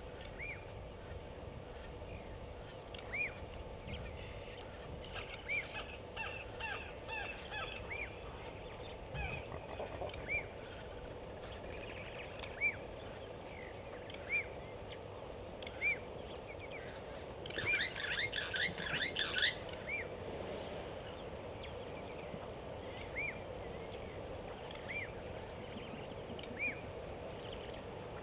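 Birds calling: a short single note repeated every second or two, and a burst of rapid chattering calls about eighteen seconds in, over a steady background hiss.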